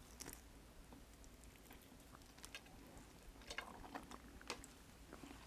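Near silence with faint, scattered mouth clicks of a person chewing food, a few a little louder late on.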